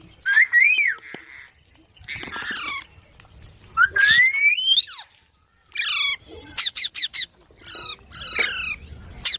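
Green pet parrot squawking and calling in a string of short separate calls, with one rising whistle-like call about four seconds in and a quick run of chattering calls near seven seconds.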